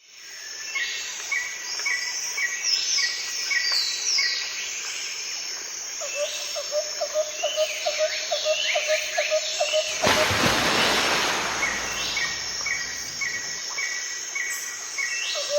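Forest birds calling: a repeated series of short chirps, high whistles that sweep downward, and a fast pulsing trill for a few seconds in the middle. About ten seconds in, a loud rushing noise covers everything for a couple of seconds.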